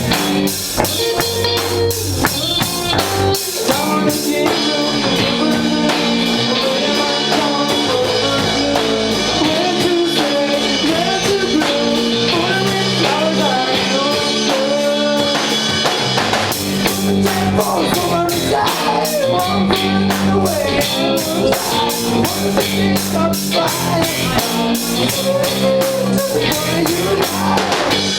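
Garage rock band playing live at full volume, drum kit and electric guitar together. The drums thin out about four seconds in and come back in full around sixteen seconds.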